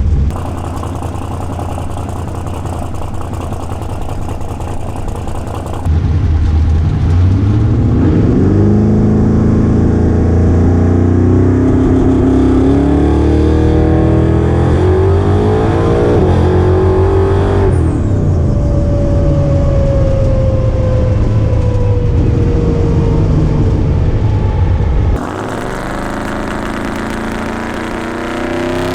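Twin-turbo big-block Chevy V8 of a 1956 Chevy drag car on a pass: the engine's pitch climbs steadily for about ten seconds, breaks off, then a single whine falls slowly as the car slows down. The sound jumps abruptly in level twice.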